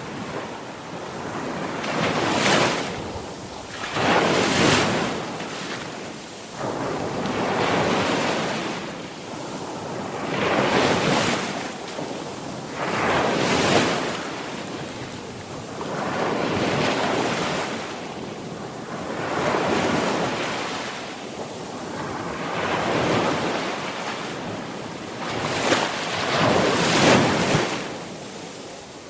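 Sea waves breaking on a shore, a fresh wave swelling up and washing out every two to three seconds.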